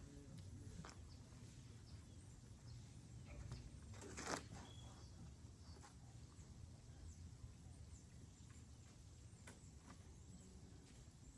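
Near silence: a low background hum with a few faint scattered clicks and one short hiss about four seconds in.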